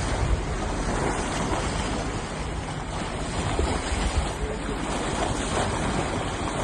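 Wind buffeting the microphone over steady water wash, a continuous rushing noise with a rumbling low end that swells and eases.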